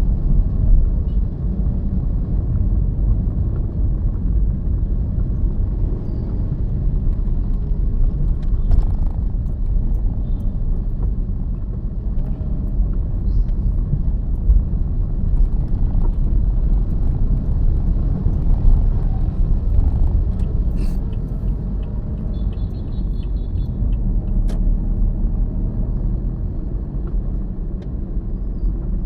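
Steady low rumble of a car driving, road and engine noise, with a few faint ticks and clicks.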